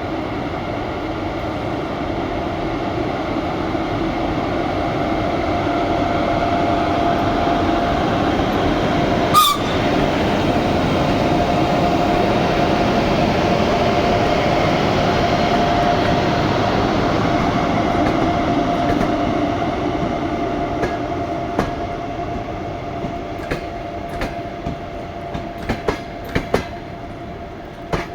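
Passenger train hauled by a ChS4 electric locomotive moving off and passing: a steady rumble with a held high tone, swelling and then fading. A single sharp click comes about a third of the way in. Near the end, wheels click over the rail joints.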